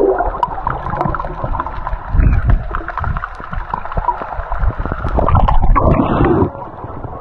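Swift river water gurgling and sloshing with irregular knocks and thumps, loudest for a stretch near the end.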